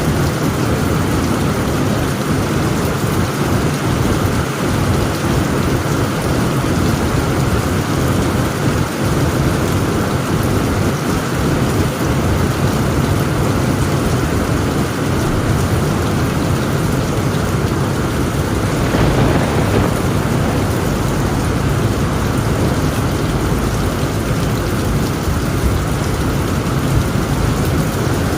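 Heavy rain pattering steadily on a tent roof, with low thunder rumbling underneath that grows heavier and more continuous about two-thirds of the way through.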